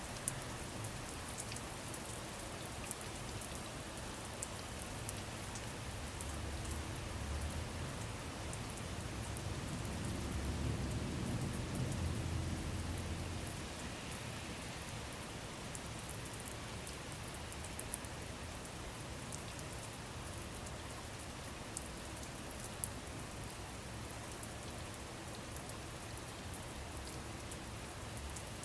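Steady rain falling, with scattered sharp drops ticking. A low rumble, like distant thunder, swells and fades about halfway through.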